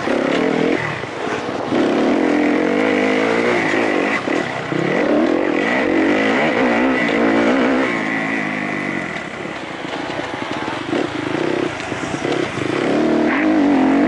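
Kawasaki KXF motocross bike's single-cylinder four-stroke engine, heard onboard, revving up and down as the throttle is worked over a dirt track. It runs softer for a few seconds in the middle, then pulls hard again near the end.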